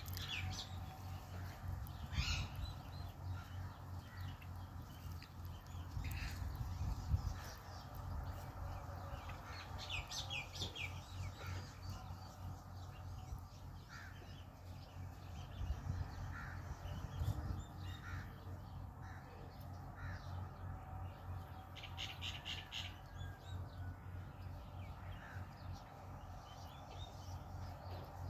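Indian ringneck parakeet squawking angrily in short calls scattered every few seconds, with a quick run of calls about 22 seconds in, over a low steady rumble.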